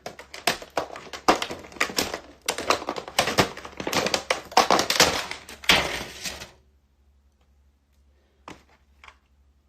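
Rapid, irregular clicking and tapping of plastic takeout food containers being handled and opened. It stops after about six seconds, and two faint clicks follow near the end.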